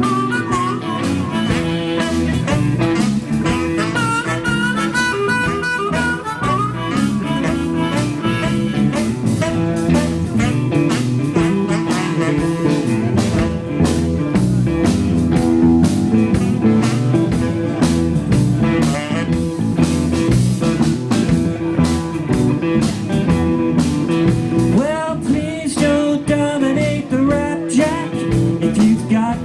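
Live rock band playing an instrumental jam: a bending lead line over bass, guitar and drums.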